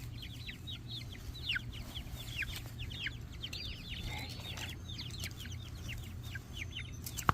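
A flock of young Black Copper Marans chicks peeping: many short, high, falling peeps from several birds, overlapping at an uneven pace.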